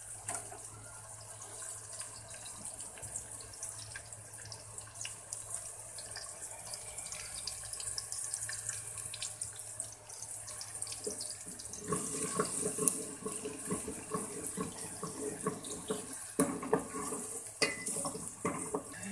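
Chopped onion and garlic sizzling and crackling in hot oil in an aluminium pot while they fry toward brown, with a metal ladle stirring and scraping against the pot. The stirring gets busier and louder about twelve seconds in.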